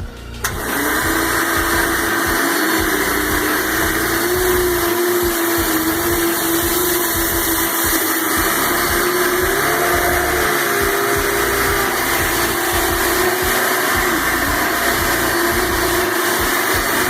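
Hoover Elite Energy Efficient upright vacuum cleaner switching on about half a second in and running steadily on carpet, its motor hum wavering in pitch a few times.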